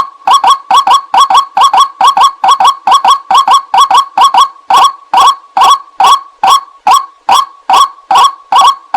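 White-breasted waterhen's 'ruak-ruak' lure call, repeated loudly and steadily at about two to three calls a second. Each call is a quick doubled croaking note. The calls come a little more spaced after about five seconds.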